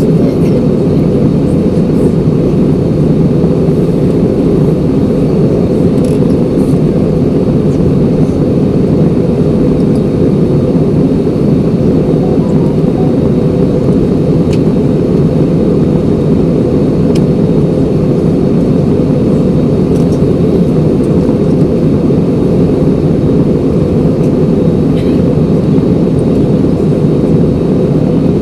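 Airliner cabin noise in flight: the steady, loud rush of the jet engines and airflow heard from inside the passenger cabin.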